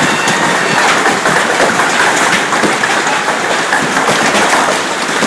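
Heavy hail pelting down, a loud, dense, continuous clatter of countless hailstones striking hard surfaces.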